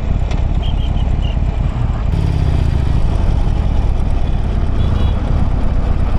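Harley-Davidson Forty-Eight's air-cooled V-twin engine running under the rider. About two seconds in, the engine note steadies and grows a little louder.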